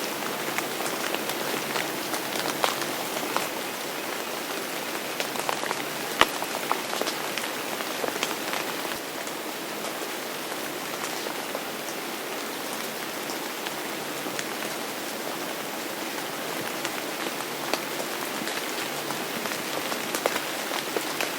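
Steady rain falling on a surface, with many separate drops ticking through the hiss and a few sharper drop hits, the loudest about six seconds in.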